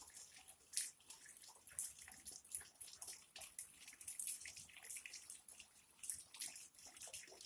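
Rainwater dripping and splashing in irregular drops, heard as quick high splats over a faint hiss.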